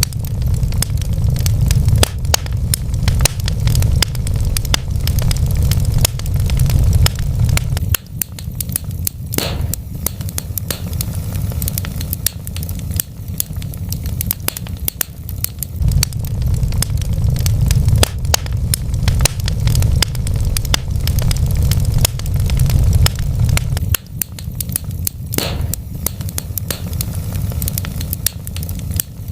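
Wood fire in a fireplace crackling and popping, with many irregular sharp pops over a steady low rumble of burning.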